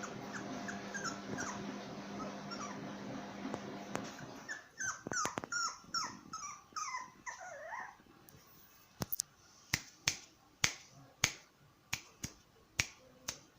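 Puppy whimpering, a run of short high cries that each fall in pitch, about three a second, growing stronger after about four seconds and stopping near eight seconds. Then a series of sharp clicks, roughly two a second.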